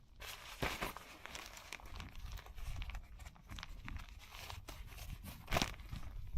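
Irregular crinkling and rustling, as of something like plastic or paper being handled, over a low steady rumble.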